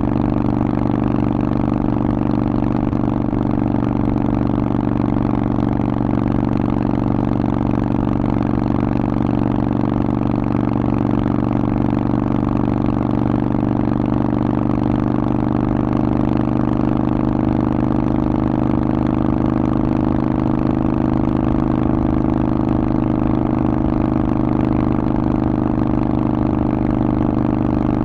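Harley-Davidson Forty-Eight's air-cooled V-twin running through a Vance & Hines exhaust at a steady, nearly constant engine speed. It rises a little in pitch and loudness about halfway through.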